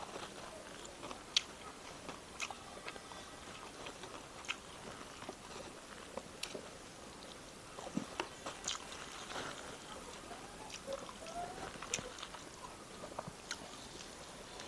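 A person chewing food close to the microphone, with irregular wet mouth clicks and small crunches.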